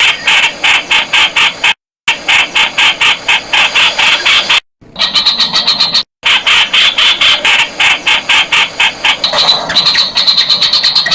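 Streak-eared bulbul calling: a loud, rapid run of sharp repeated notes, about six a second, broken three times by abrupt short silences.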